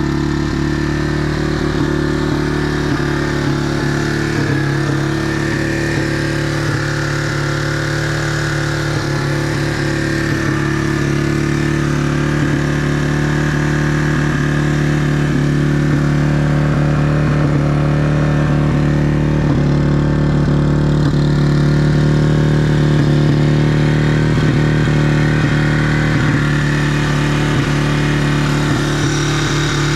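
1999 Yamaha TTR225's air-cooled single-cylinder four-stroke engine idling steadily while it warms up after a cold start.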